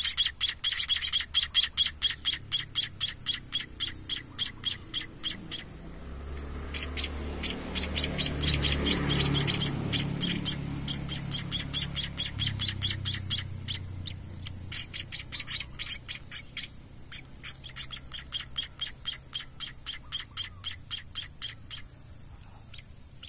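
Munia nestlings (emprit kaji) begging while being hand-fed: rapid runs of short, high chirps, several a second. The runs break off briefly twice. A low rumbling handling noise comes through in the middle.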